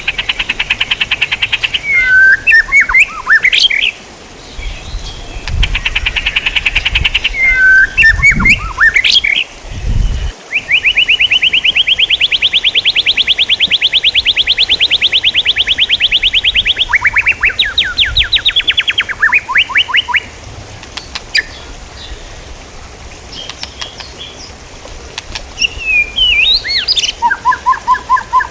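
Songbird calls: sharp chirps and whistled notes, then a long, fast trill of evenly repeated notes lasting about six seconds. Several shorter trills follow, and after a quieter stretch a few chirps come near the end.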